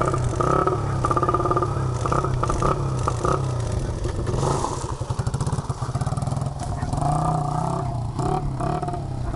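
Small Honda dirt bike's engine running as it rides, the engine note rising and falling with the throttle.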